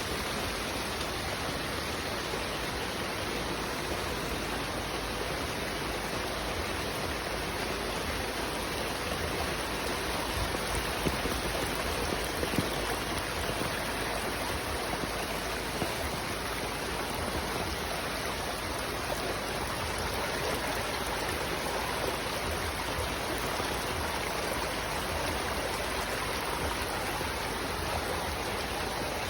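Flash floodwater rushing steadily, swollen by heavy rain, a dense even wash of flowing water.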